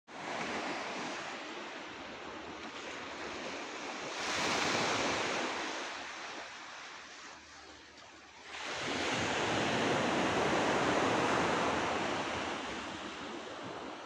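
Sea surf washing onto the shore: a steady roar of breaking waves that swells about four seconds in, ebbs, and surges again with a bigger wave just before nine seconds.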